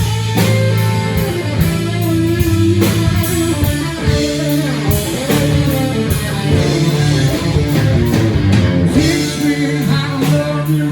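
Live rock band playing a song: electric guitar over bass and a drum kit, with regular drum hits.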